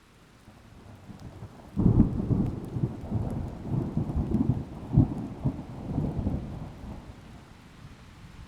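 A typhoon thunderclap: a sudden deep rumble about two seconds in, rolling in irregular pulses for about five seconds before fading, over rain.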